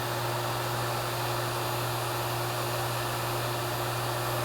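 HVAC vacuum pump running steadily with an even low hum and a constant tone, pulling a deep vacuum on an air-conditioning system through a single hose.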